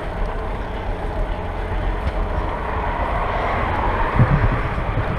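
A vehicle passing on the road, its noise swelling and then fading, over steady wind rumble on the microphone of a moving bicycle.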